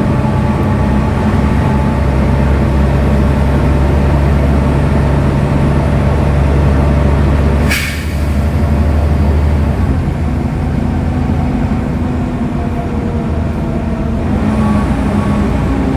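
Volvo D7C 7.3-litre six-cylinder diesel engine of a Volvo B7TL double-decker bus running steadily with a deep hum, a brief sharp hiss about halfway through. After that the low engine note drops away and the pitch shifts and rises slightly near the end.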